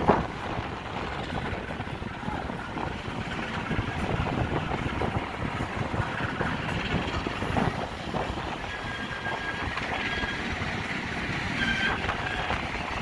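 Steady rumble and clatter of rail wagons rolling on steel track as a train of grain hopper wagons passes close alongside. There is a sharp clank right at the start. From about nine seconds in, a thin, high metallic wheel squeal comes and goes.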